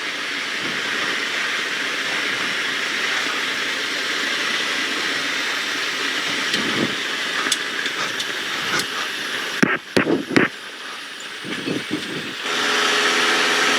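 Carbon Cub light aircraft cockpit noise on approach: engine and rushing air as a steady hiss. About ten seconds in it drops away with a few sharp knocks. Near the end a louder, steady engine drone with a clear pitch comes in.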